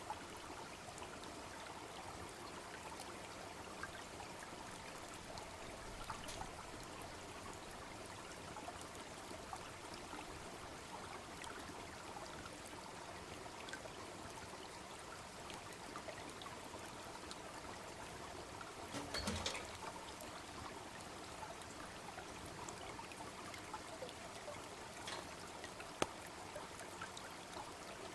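Small babbling stream trickling steadily, with scattered pops from a wood campfire, a brief burst of them about two-thirds of the way through and one sharp pop near the end.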